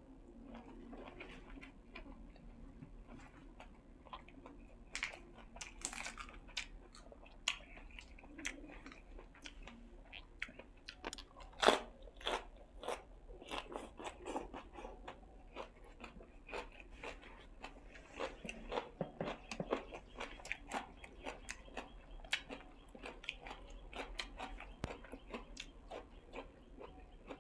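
A person chewing and biting into crunchy food, with irregular crunches and mouth smacks. One loud crunch comes about halfway through.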